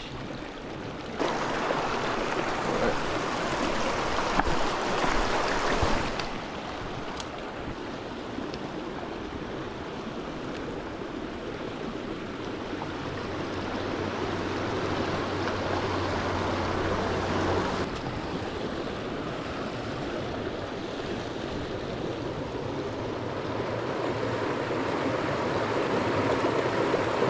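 Small mountain stream flowing and splashing over rocks, a steady rush of water that grows louder or softer in a few sudden steps.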